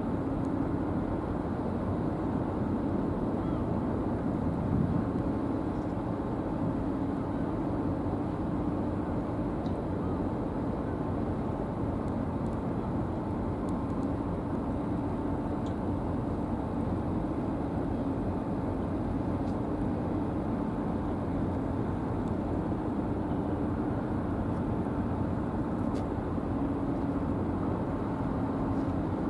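Steady low drone of the high-speed car ferry's engines as it leaves port, with an even hum running through it.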